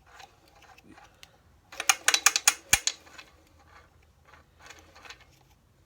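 Rapid metallic clicking, about a dozen sharp clicks in a second and a half, with a few fainter clicks around it: a two-stroke generator's piston being rocked side to side on its pin and connecting rod. The owner takes this loose play for the cause of the engine's knocking.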